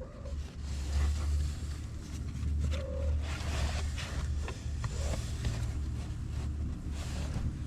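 A few short cat meows, about three, over a steady low rumble and scattered rustling.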